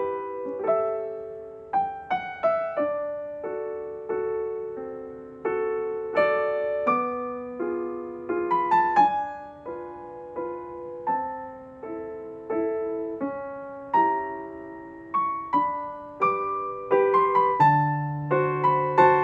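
Background music: slow, gentle solo piano playing sustained notes and chords.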